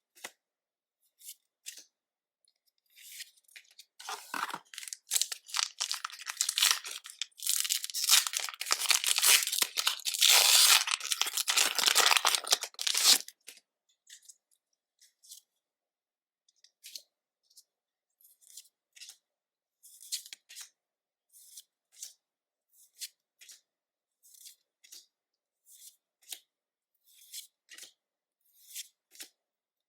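A Pokémon booster pack's foil wrapper is torn open: a dense crinkling rip that lasts about ten seconds. Then the trading cards are slid through the hand one by one, a soft flick about once or twice a second.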